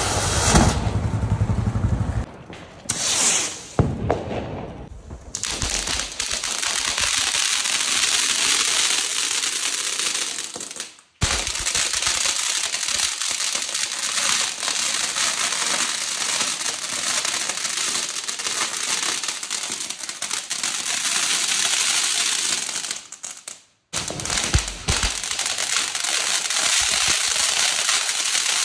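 Diwali ground fireworks, fountains (anar) spraying sparks, giving off a steady loud hiss and crackle. A couple of sharp cracks come about three and four seconds in, and the sound cuts off abruptly twice where one firework's clip gives way to the next.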